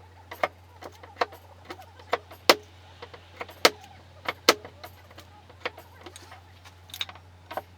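Irregular light hammer taps on the sheet-steel panel of a car fender during dent straightening, some strikes ringing briefly, over a steady low hum.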